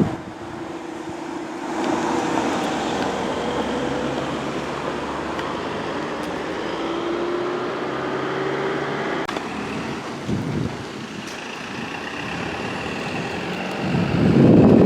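Road traffic: vehicles running by with steady engine and tyre noise and a slowly shifting hum, and a louder swell near the end as one passes close.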